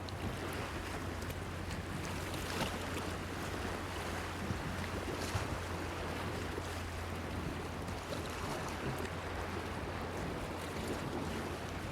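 Small waves lapping and splashing against a breakwater, a steady wash of water with a few faint splashes, over a constant low hum.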